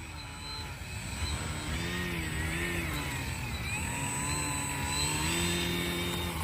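Electric motor and propeller of a HobbyZone Carbon Cub S2 RC plane running up for takeoff. It is a whine whose level builds over the first second or two and then holds, its pitch wavering up and down with the throttle.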